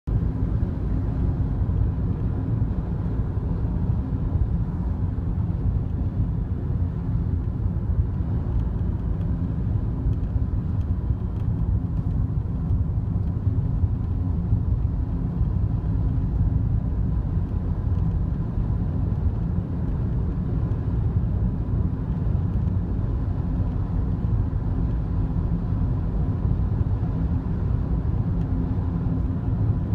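Cabin noise inside a Daihatsu Wake kei car on the move: steady road and engine rumble with a few faint, scattered light ticks. The ticks are the rattle that the owner traces to around the passenger-side drink holder.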